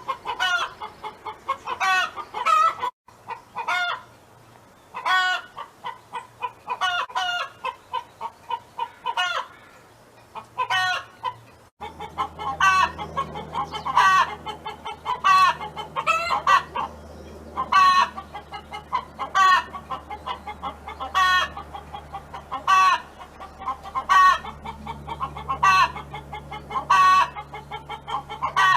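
Domestic hen clucking over and over, short pitched calls about once a second in the drawn-out rhythm of a hen's song. About a third of the way in, a low steady hum joins underneath.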